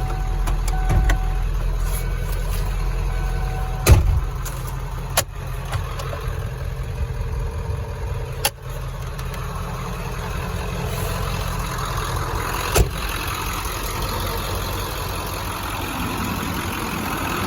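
1996 Ford F-350's 7.3L Power Stroke turbo diesel V8 idling steadily, with a few sharp clunks over it, the loudest about four seconds in.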